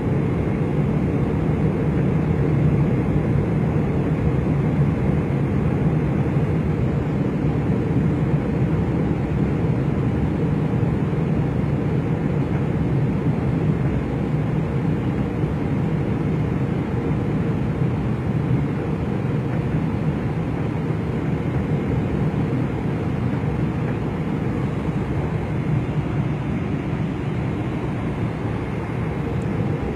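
Steady engine and airflow noise of an airliner heard from inside the cabin, an even low rumble with a faint steady hum that holds level throughout.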